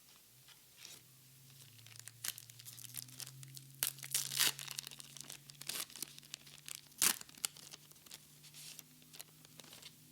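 Foil trading-card booster pack being torn open and crinkled: a run of sharp crackles, loudest about four and seven seconds in.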